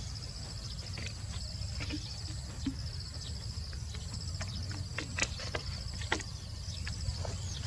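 Steady, high, pulsing insect buzz, with scattered sharp clicks and a low rumble underneath.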